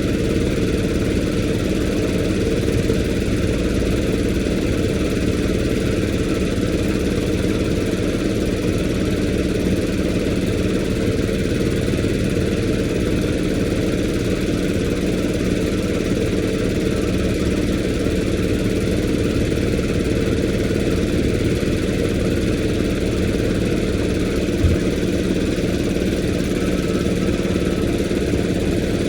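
An engine idling steadily, with one short knock about 25 seconds in.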